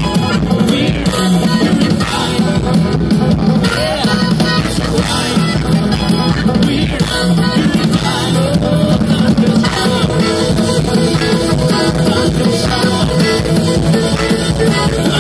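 Live band playing an instrumental passage of a rock cover in bluegrass style, with drum kit and plucked string instruments, loud and steady throughout.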